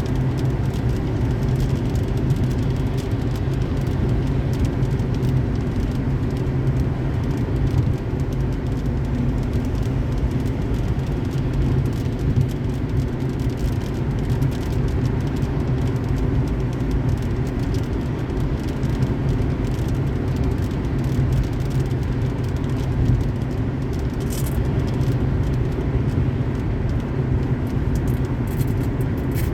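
Car driving at highway speed: a steady low drone of engine and tyre noise that does not change.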